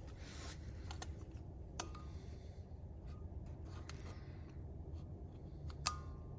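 Low steady hum of room tone with scattered light clicks and a couple of small metallic clinks, the sharpest one near the end ringing briefly.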